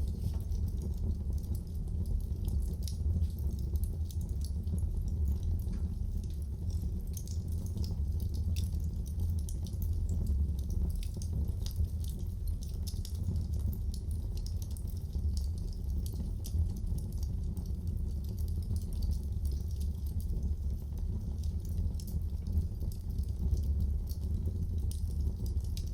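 Wood fire crackling in a fireplace: frequent small irregular pops and snaps over a steady low rumble.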